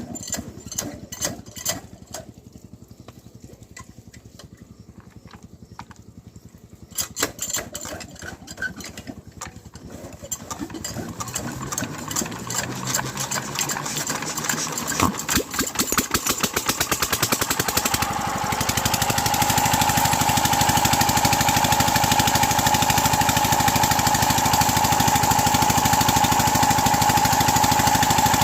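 Old diesel water-pump engine being started: scattered clicks at first, then a knocking that quickens and grows louder over about ten seconds until, about eighteen seconds in, the engine is running steadily and loud.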